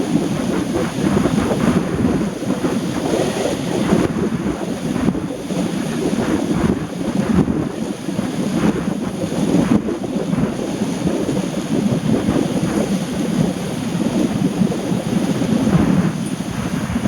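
Heavy rain, a loud, steady rushing noise, with wind buffeting the microphone.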